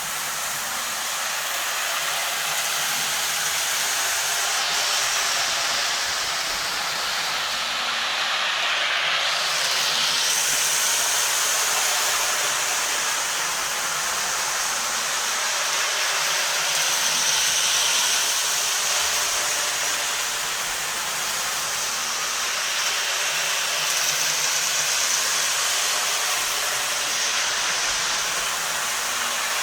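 Toy electric train running continuously around its track, a steady whirring hiss that swells and fades gently every several seconds.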